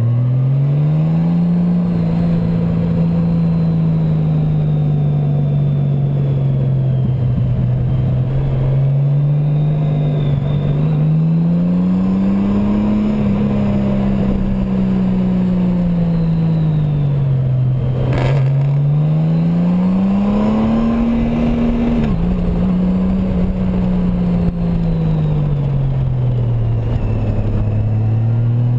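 Honda Gold Wing's flat-six engine heard from the rider's seat while riding through a series of curves. The engine note rises and falls slowly several times as the throttle is opened and eased. There is a brief sudden dip in pitch about two-thirds of the way through and a single sharp click about halfway.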